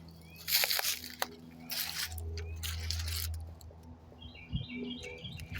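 Three rushing, rustling noise bursts, each about half a second long, with a single sharp knock about a second in. Short, rapid bird chirps come near the end, over a steady low hum.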